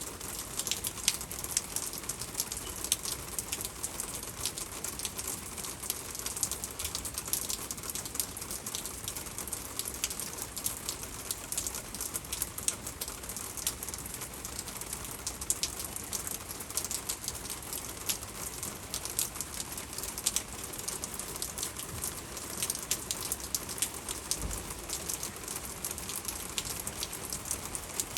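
Steady rain pattering on a surface, a dense run of many small sharp drop impacts.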